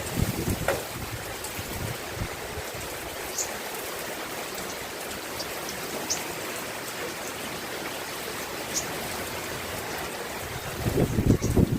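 Steady rain falling, an even hiss with a few faint high ticks. Low buffeting thumps come just after the start and again near the end, and those near the end are the loudest.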